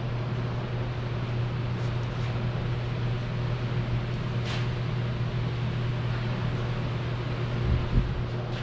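A steady low mechanical hum, with a short low thump near the end.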